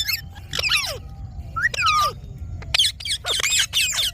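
Indian ringneck parakeet calling: about five bursts of sharp chirps and whistles that slide up and down in pitch, over a steady low background rumble.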